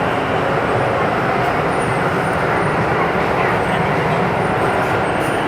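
Steady running noise of an MRT metro train heard from inside the carriage between stations, an even rumble and rush without breaks.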